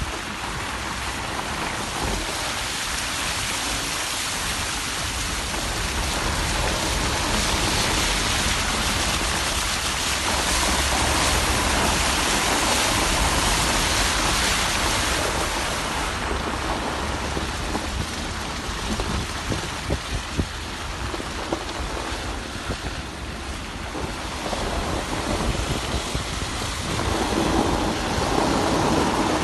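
Heavy rain pouring down in a steady hiss. It grows louder about seven seconds in and eases about sixteen seconds in.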